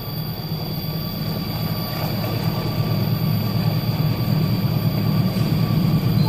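Train approaching a level crossing: a steady low rumble that grows gradually louder, with a thin, steady high tone above it.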